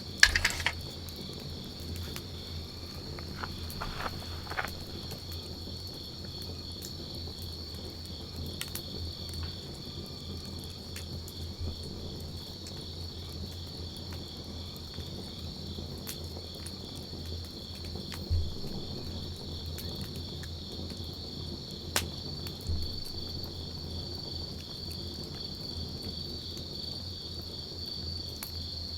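Wood campfire crackling, with scattered sharp pops; the loudest come just after the start and about 18 and 22 seconds in. A steady high-pitched chirring of insects runs behind it.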